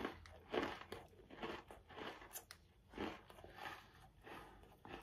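A person chewing a Coca-Cola-flavoured Oreo cookie with their mouth closed, close to the microphone: a string of short, irregular crunches.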